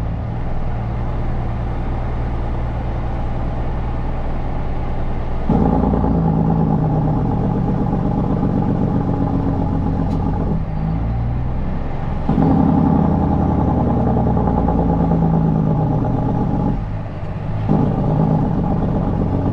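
Kenworth C500 heavy truck's diesel engine running under way, heard from the cab. It pulls harder about five seconds in, then eases off twice for a second or two and picks up again.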